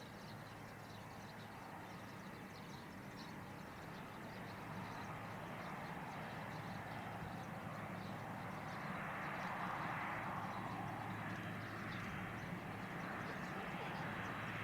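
Distant jet airliner engine noise: a broad rush that swells to its loudest about nine to ten seconds in and then eases, over a steady low hum.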